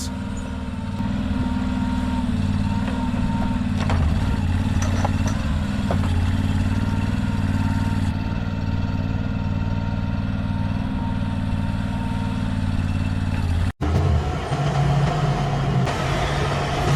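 A vehicle engine running steadily. About three-quarters of the way through it cuts off abruptly, and a different heavy truck engine takes over, running at a low, steady idle.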